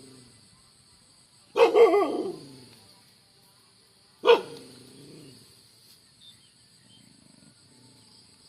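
A dog barks twice: a longer wavering bark about one and a half seconds in, and a shorter, sharper one a few seconds later. A steady, high insect shrill runs underneath.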